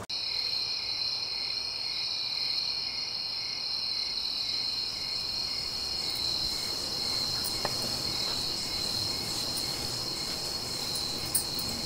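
Crickets chirping: a steady, high, continuous trill with a fainter pulsing chirp beneath it. It starts suddenly and keeps up without a break.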